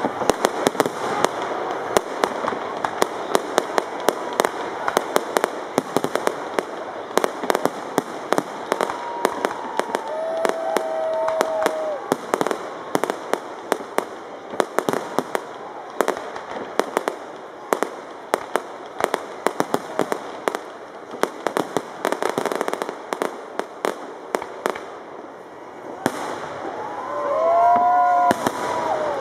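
Fireworks exploding overhead: a rapid stream of sharp bangs and crackling, densest in the first half and thinning out later. People's voices call out around ten seconds in, and again more loudly near the end.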